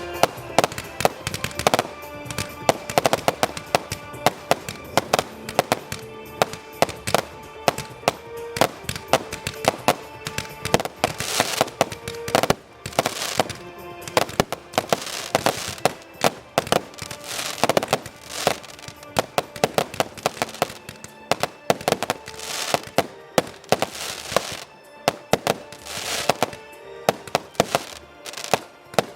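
Fireworks going off in rapid, dense succession, many sharp bangs and crackles overlapping, over music playing throughout.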